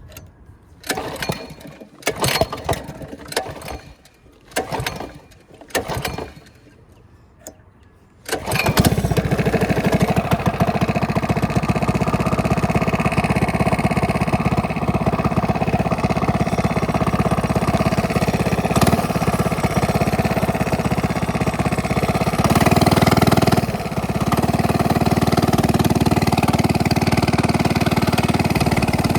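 Small minibike engine with a straight-pipe exhaust being started: five short cranking attempts, then it catches about eight seconds in and runs loud and steady, with a brief rise in revs near the end.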